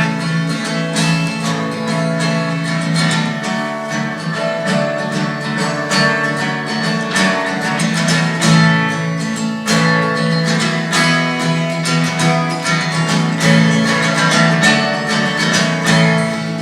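Acoustic guitar played alone in an instrumental break between verses of a folk-style song, strummed and picked steadily.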